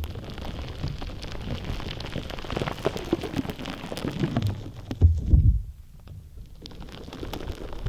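Hands kneading and pressing a gritty shaved-ice slime: a dense run of fine crackling ticks over soft low squishes, with a louder squish about five seconds in and a quieter stretch just after.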